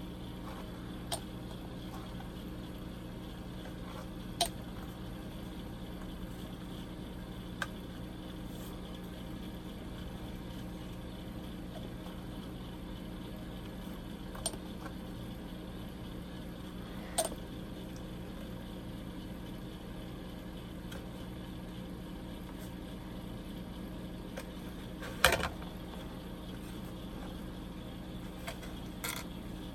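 Steady low background hum, with occasional small sharp clicks and taps of plastic kit parts and tools being handled on a workbench, the loudest a little after the middle of the second half.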